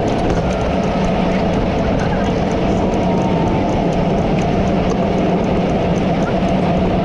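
Steady rushing road and wind noise of travel at speed on a wet road in heavy rain, with a low steady hum underneath and faint regular ticking.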